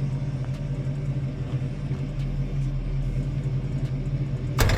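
1983 Oldsmobile Cutlass Hurst/Olds V8 idling steadily after being warmed up, with a low, even pulse. A single sharp knock comes near the end.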